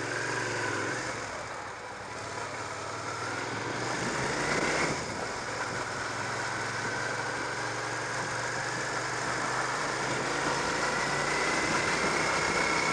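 Motorcycle engine accelerating: the revs climb for about five seconds, drop sharply at a gear change, then rise slowly and steadily again.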